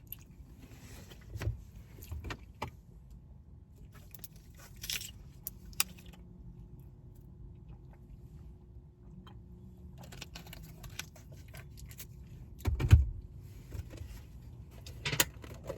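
Rummaging and handling sounds: scattered clicks, rustles and light knocks, with one louder thump about 13 seconds in, as napkins and takeout packaging are handled.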